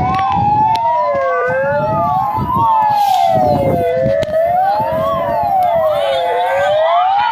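Several fire engine sirens wail together, each rising and falling over about two seconds and running out of step with the others, with a low rumble underneath.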